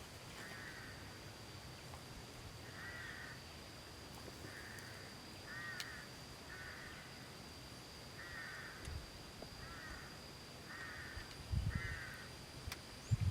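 A crow cawing repeatedly: about ten short calls spaced roughly a second apart, over a faint steady high whine. A few low thumps come near the end.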